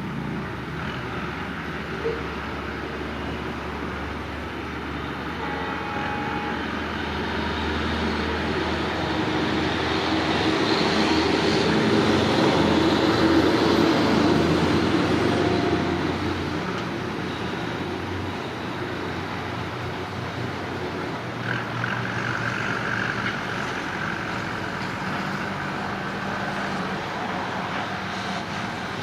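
Train hauled by a WDG-4D diesel locomotive running past, its rumble building to its loudest about halfway through and then fading.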